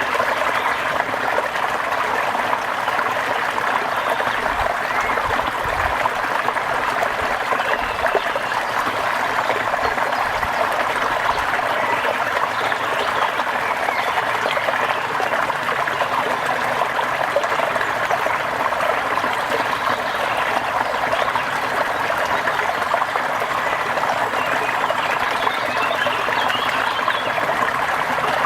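Steady rain with trickling, running water: an even splashing hiss that neither stops nor changes.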